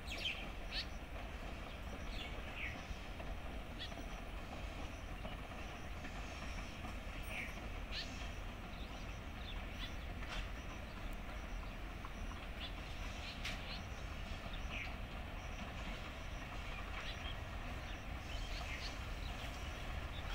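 Steady low rumble of a distant diesel passenger train approaching, with short high chirps here and there.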